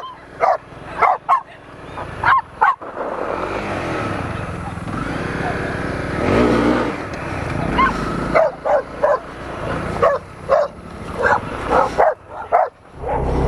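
Dogs barking repeatedly and fast at a passing motorcycle, with several quick barks in the first few seconds and a longer volley near the end. A motorcycle engine runs steadily underneath during the quieter middle stretch.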